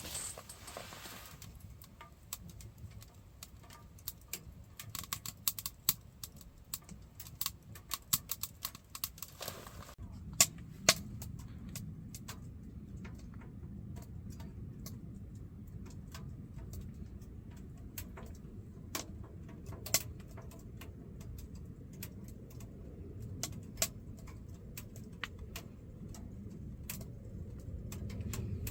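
Firewood burning in a wood stove, crackling and popping with irregular sharp snaps over a low steady rumble.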